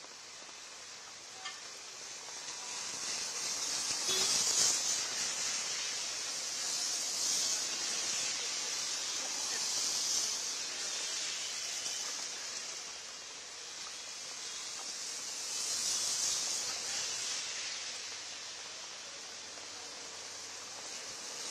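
Heavy monsoon rain falling, a steady hiss that swells and eases several times.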